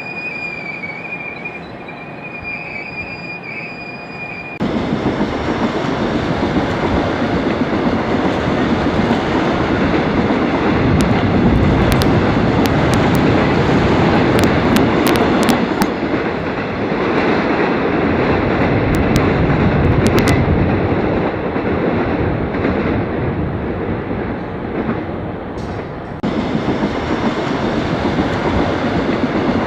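Subway train running on the rails. It opens with a steady high wheel squeal, then after about four and a half seconds jumps abruptly to loud, even running noise with scattered sharp clicks through the middle, and changes abruptly again near the end.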